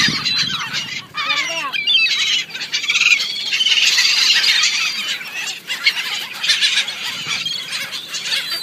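A flock of seagulls squawking, many harsh calls overlapping, thickest about halfway through, as they crowd in for scraps of food.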